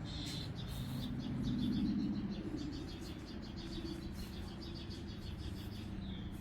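Small songbirds chirping in short high notes, with a quick run of rapid chirps in the middle, over a steady low rumble.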